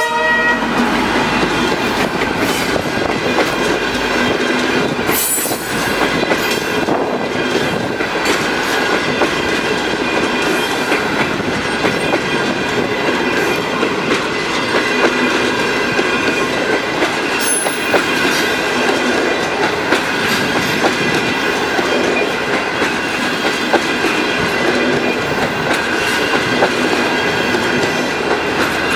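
Passenger train behind a CNR CKD8G diesel locomotive passing at close range: a steady loud rumble as the coaches roll by, dotted with the clickety-clack of wheels over rail joints.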